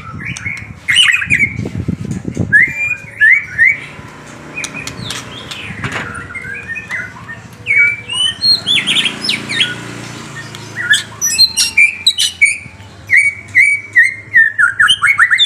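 Songbird chirping: short, sharp chirps and quick sweeping notes, with a rapid run of repeated chirps near the end, then the sound cuts off abruptly.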